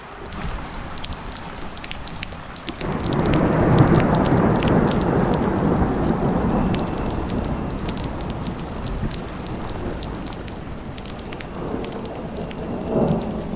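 Heavy rain pattering steadily, with a rumble of thunder about three seconds in that swells and rolls on for several seconds as it fades, and a shorter rumble near the end.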